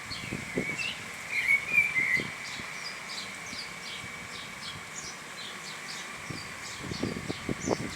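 Birds chirping in many quick, short, falling notes over a steady high drone, with a louder warbling call about a second and a half in. A few low knocks come near the end.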